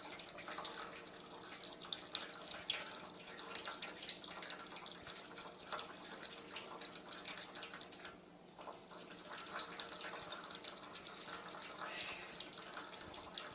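Water running from a tap, splashing steadily, with a brief drop in level about eight seconds in.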